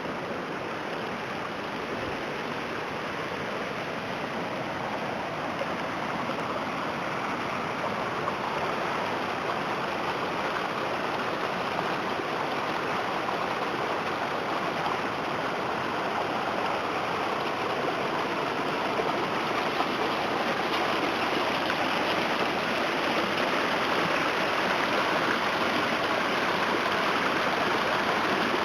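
Floodwater from a small flash flood rushing steadily, growing gradually louder: runoff pouring off saturated hills with drains blocked.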